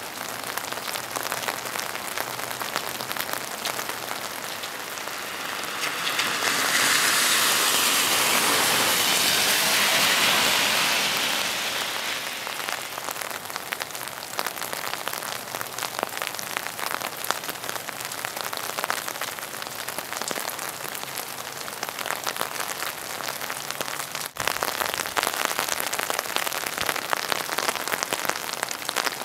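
Steady rain, heard as a constant hiss with many separate drops striking. About six seconds in, a louder rushing hiss swells, holds, and fades away by about twelve seconds.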